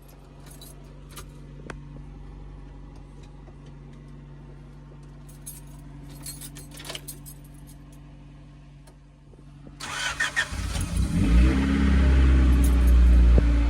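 A steady low hum with scattered light clicks and rattles, then about ten seconds in a car engine starts and runs loudly with a strong low drone.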